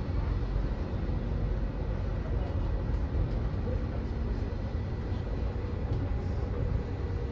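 Running noise inside an SBB Rabe 514 Siemens Desiro double-deck electric train travelling at speed: a steady low rumble from wheels and track, with a faint steady high whine, heard from the door vestibule.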